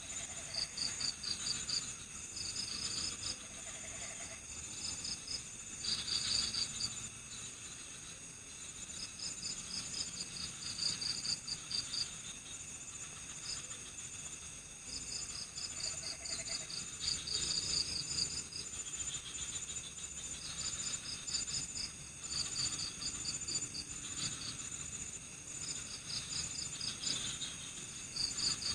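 Night-time chorus of crickets: repeated bursts of rapid chirps, a new burst every second or two, over a steady high-pitched insect drone.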